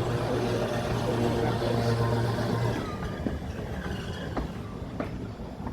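Electric tram of the Seaton Tramway running on its track. A steady electric hum with overtones starts with a sharp click and stops after about three seconds. It leaves a rumbling ride noise with a few sharp clicks.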